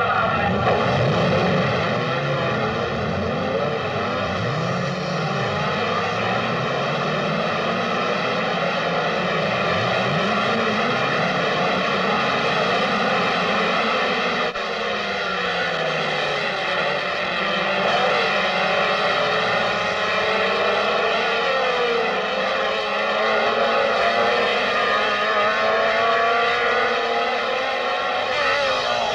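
Racing car engines running hard, their pitch rising and falling again and again as they rev through the gears and pass by.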